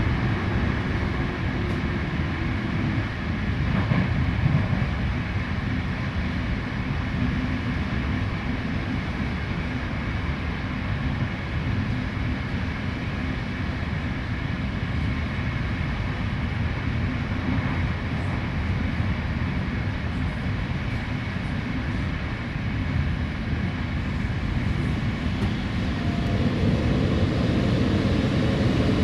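Steady running noise of a passenger train at speed, heard inside a coach corridor: a low rumble of wheels on rail with a constant rushing hiss. A faint hum joins near the end.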